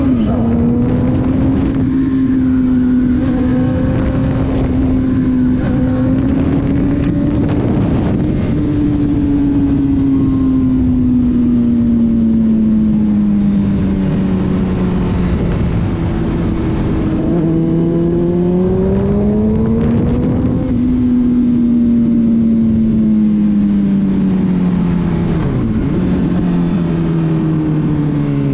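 Car engine running at highway speed over steady tyre and road noise. Its pitch sags slowly, climbs for a few seconds about two-thirds of the way in as the car speeds up, then eases off again.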